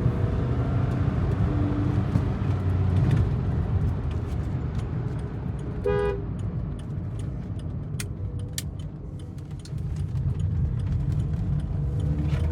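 Cabin noise of a VW Vento 1.5 TDI diesel under way, with engine and road noise and the turbo working normally now that the engine has cooled. A car horn toots once, briefly, about six seconds in. The noise eases for a moment around nine seconds in and picks up again.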